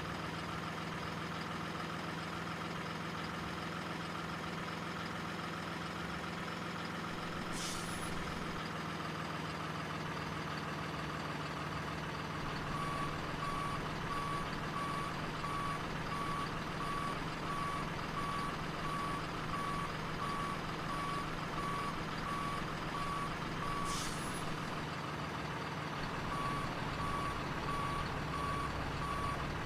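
Remote-control truck's sound module playing a steady diesel engine sound, with an evenly repeating reversing beeper starting about halfway through, pausing briefly, then resuming. Two short high hisses break in, one about a third of the way in and one just as the beeping pauses.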